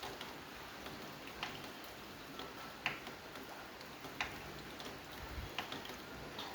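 Steady rain hiss with single heavy drops plinking sharply on a surface at an even pace, about one every second and a half.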